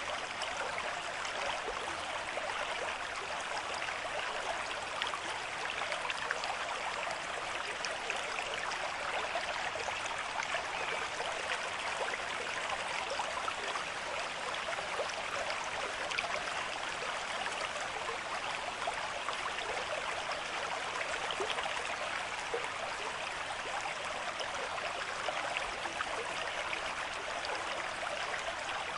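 Stream water flowing and babbling steadily, a dense, even rush of many small splashes and trickles.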